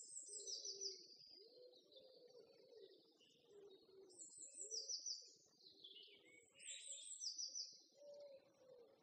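Faint birdsong: a small bird repeating a short, high trilled phrase every few seconds, with a lower, wavering call underneath.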